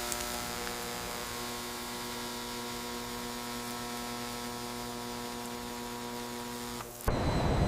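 A steady hum made of several fixed tones over a faint hiss, holding level without change. About seven seconds in it cuts off abruptly and a louder, rough low rumble takes over.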